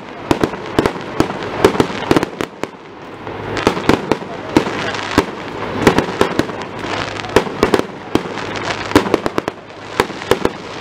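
Aerial firework shells bursting in a fast, uneven run of sharp bangs, several a second.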